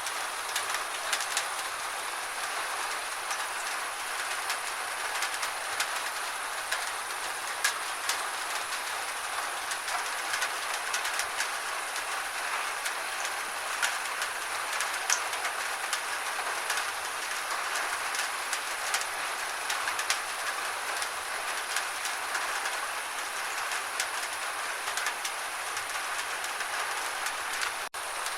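Gentle rain falling steadily: an even hiss with many sharp drop ticks scattered through it. Near the end it cuts out for an instant.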